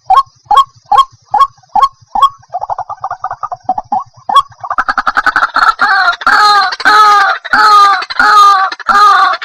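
White-breasted waterhen calling. First comes a run of short notes about two a second, then a fast rattling trill about three seconds in. From about five seconds in, louder harsh notes repeat about one and a half times a second.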